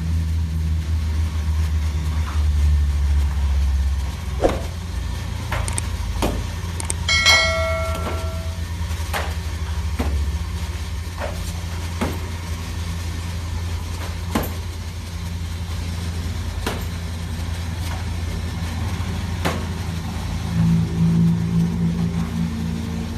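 A steady low mechanical hum, engine-like, with scattered sharp clicks every second or two and a brief ringing tone about seven seconds in.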